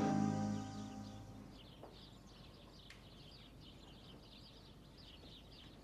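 Background music fading out over the first second or so, then faint, rapid bird chirping and twittering.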